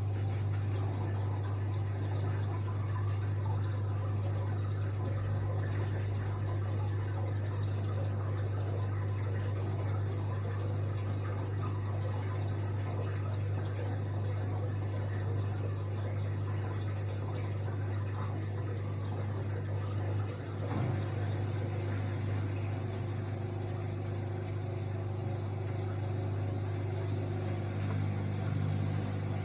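AEG Lavamat L62850L washing machine running, with water moving inside over a steady low electrical hum from its pump or valve. About twenty seconds in the sound briefly shifts, and a second, higher tone joins near the end.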